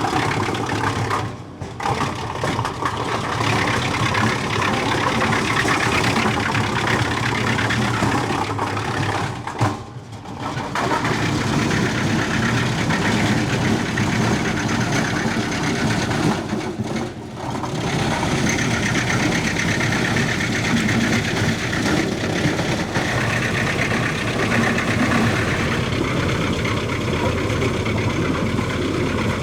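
Tractor engine running steadily, driving a REMET RT-630R PTO disc wood chipper. The sound dips briefly three times.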